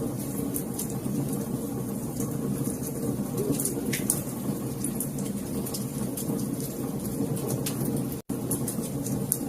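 Wood fire crackling, with frequent small sharp pops and snaps over a steady low rumble of the flames. The sound cuts out for an instant about eight seconds in.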